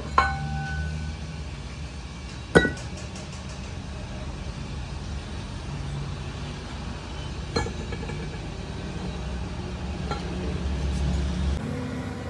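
Sharp metallic clanks of steel parts being struck, each ringing briefly; the loudest comes about two and a half seconds in, with others at the start and near the middle, over a steady low hum.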